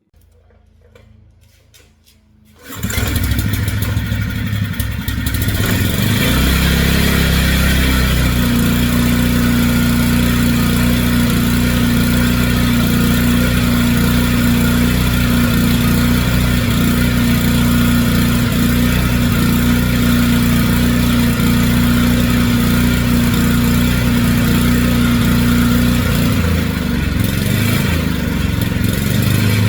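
Generac 3500XL portable generator's engine starting on the first pull, catching about three seconds in, then running steadily. The engine keeps running with its new low oil pressure switch fitted and does not shut down.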